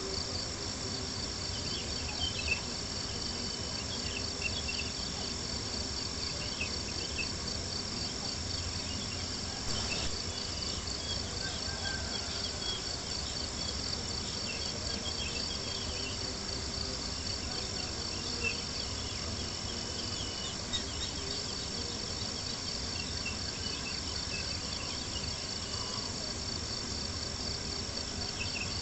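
Campfire crackling, with scattered small ticks and a few sharper pops, under a steady, high, pulsing chirring of night insects.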